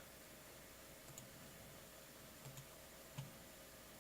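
A few faint computer clicks, about three, spaced a second or so apart, over a faint steady hum; otherwise near silence.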